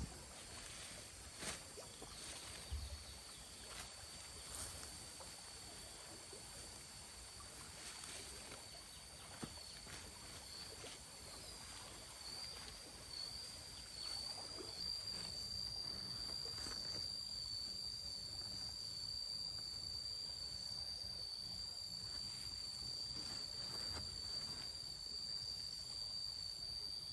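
Steady high-pitched insect drone that grows louder about halfway through, with scattered faint clicks and knocks.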